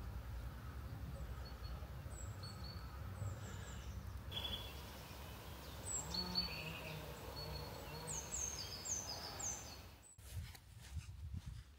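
Small birds chirping in short, high notes that fall in pitch, some in quick series, over a steady low rumble. About ten seconds in the sound cuts and footsteps on the path begin.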